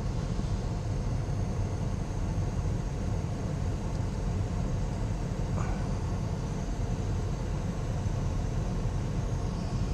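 Steady running of a GMC Savana box truck's engine and air-conditioning blower, a low rumble under an even rush of air through the vents, now that the broken vacuum line has been reconnected.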